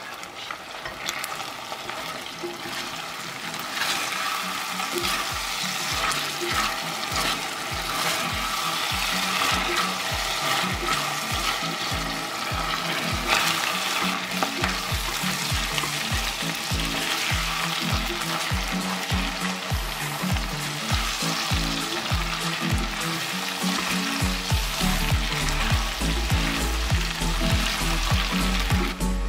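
Chicken pieces sizzling as they fry in oil in an enamelled pot, stirred with a spatula. Background music with a steady beat plays underneath.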